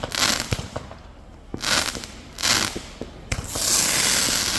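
Fireworks going off: several sharp bangs spread over the first three seconds, then a loud, steady crackle from about three seconds in.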